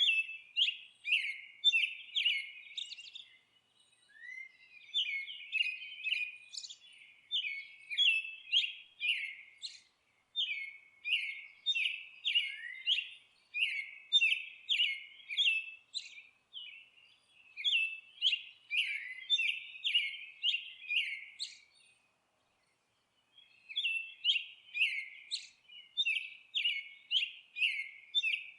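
Birds chirping: short, high notes repeated about twice a second in runs several seconds long, with brief pauses between the runs.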